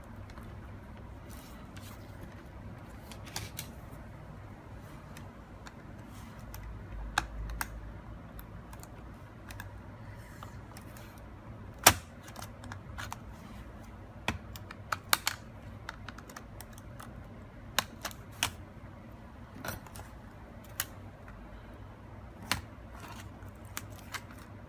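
Irregular small clicks and taps of a laptop being taken apart: tools, screws and plastic parts being handled, with one sharper click about halfway through.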